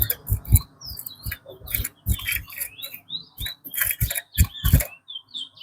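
Caged chestnut-bellied seed finch (towa towa) singing short, warbled chirping phrases, mixed with many sharp clicks and taps, which are the loudest sounds.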